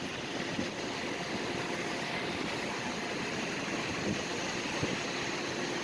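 Steady outdoor background noise, an even rumble and hiss with no distinct calls or knocks.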